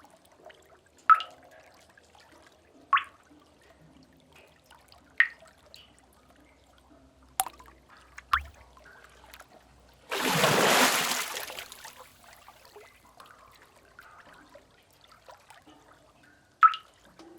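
Sea cave water drips: single sharp drops falling every one to two seconds. About ten seconds in, a wave washes and splashes in for about two seconds, the loudest sound here.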